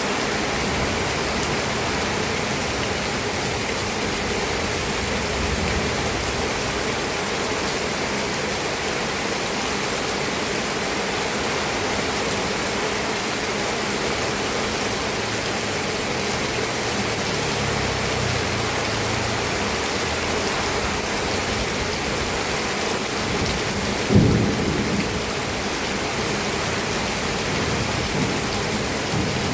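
Steady rain falling, with a faint low rumble in the middle and a sudden loud thump near the end.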